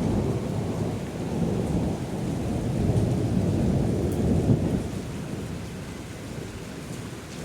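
Thunder rumbling during a heavy rainstorm, a long low roll that swells about three to four seconds in and then fades away, with rain falling underneath.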